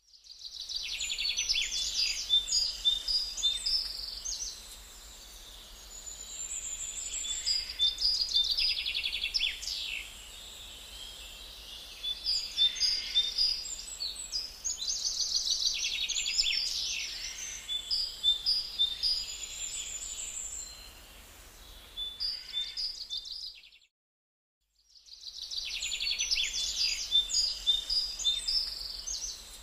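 Birds chirping and trilling in repeated bursts of quick high calls, over a faint low hum. The sound cuts out completely for about a second near the 24-second mark, then starts again.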